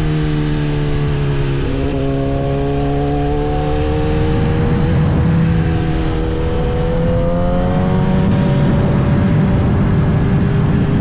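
Kawasaki ZX-10R inline-four engine running on the road: its pitch dips, breaks briefly about two seconds in, then climbs slowly before holding steady near the end.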